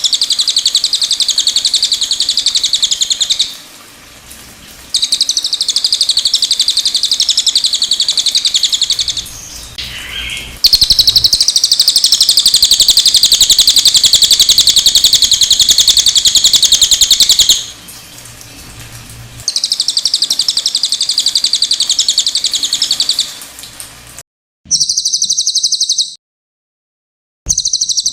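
Cililin bird singing long, rapid, high-pitched trills in stretches of several seconds with short pauses between them. Near the end the song twice starts and cuts off abruptly into dead silence, as edited recording segments.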